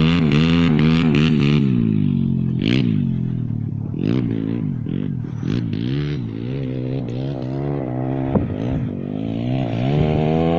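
A 140cc pit bike's single-cylinder engine running, its pitch rising and falling over and over with the throttle. A few clicks and rattles come in the middle, and there is a single sharp knock late on.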